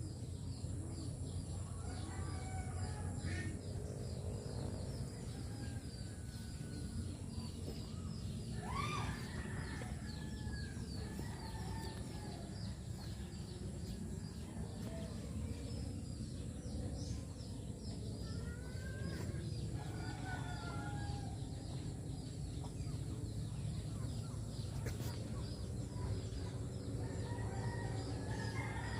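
Chickens clucking now and then, with a louder rising call about nine seconds in. Under them are a steady low rumble and fast, repeated high chirping.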